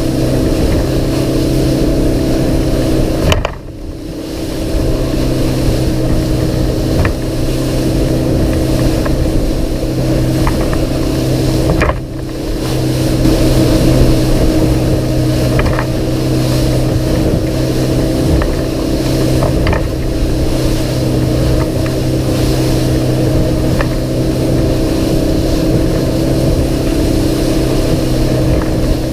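Outboard engine of a Sea Pro 228 Bay boat running steadily under way through chop, with rushing water and wind noise. The sound drops out sharply twice, about 3.5 and 12 seconds in, and builds back up over a second or so.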